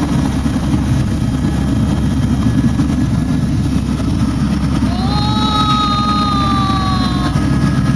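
Steady loud drone of a helicopter heard from inside the cabin. Past the middle a single held tone rises and then slowly falls for about two seconds.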